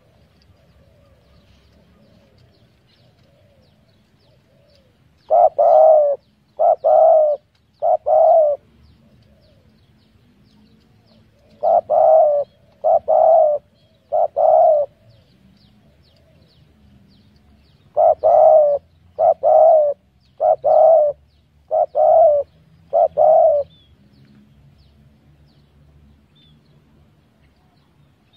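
Spotted dove cooing in three phrases a few seconds apart: two of three notes, then one of five notes. Faint high chirps of small birds are heard between the phrases.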